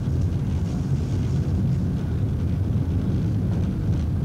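Steady low drone and rumble of a diesel train, heard from inside the driver's cab as it runs along the track.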